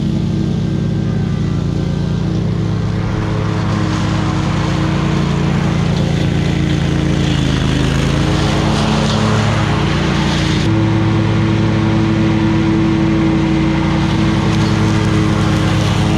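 Engine of a mower or trimmer cutting overgrown grass, running steadily at high speed with a slight dip in pitch midway. The sound changes abruptly about two-thirds of the way through.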